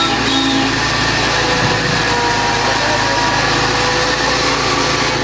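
Miniature park train running along the track: a steady engine hum under a constant rolling rumble.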